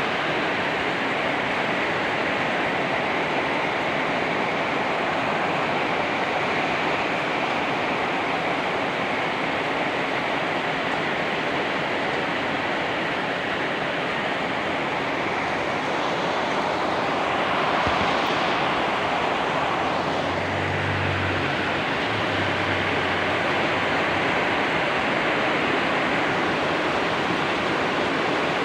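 Heavy rain pouring steadily in a wind-driven downpour. About two-thirds of the way through, a brief louder swell passes, with a short low hum.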